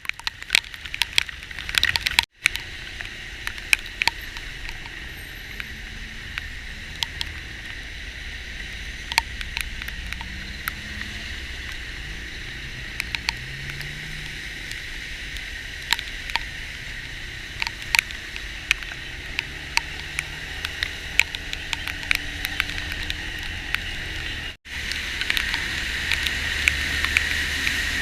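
Heavy rain on a moving vehicle: a steady hiss with many scattered sharp drop hits over a low rumble of engine and road. The sound cuts out abruptly twice.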